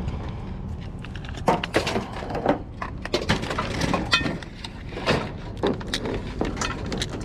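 Junk and scrap being shifted and rummaged through in a dumpster: a dense, irregular clatter of knocks, clinks and rattles.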